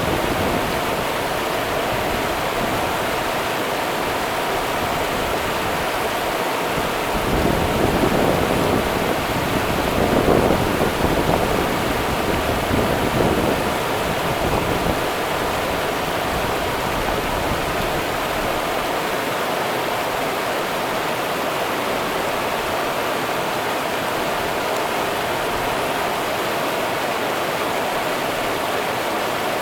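Rio Grande river water rushing steadily, with a few louder surges of water between about 7 and 15 seconds in.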